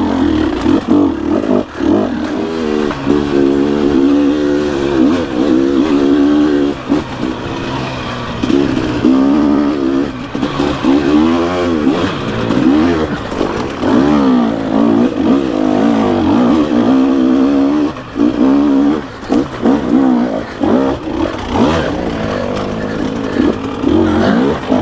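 Dirt bike engine revving hard and easing off again and again, its pitch rising and falling every second or two, with brief dips where the throttle is chopped. This is the sound of a bike being worked up a slippery hill.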